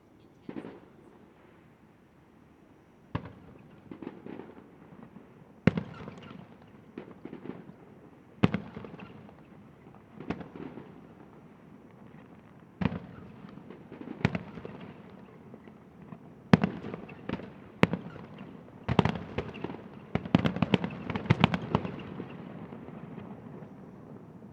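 Fireworks display: aerial shells bursting with sharp bangs every few seconds, each trailing off in a rumble. The bangs come faster and build to a dense flurry of crackling bursts near the end.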